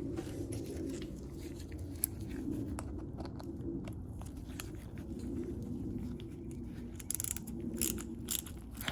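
Small metal carburetor parts being handled and fitted together as the float bowl goes back on and is tightened: scattered light clicks and scrapes, more of them near the end, over a steady low hum.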